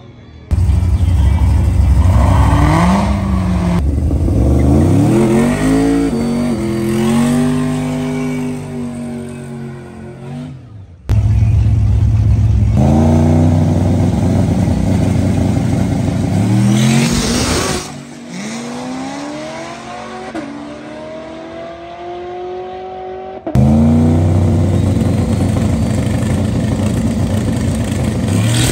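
Drag-racing vehicles launching hard in three separate passes, each engine revving up with its pitch climbing, dropping back and climbing again as it shifts gears.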